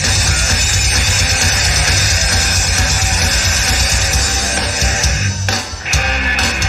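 Loud live rock band playing, with electric guitar and drum kit, and a short break in the playing about five and a half seconds in.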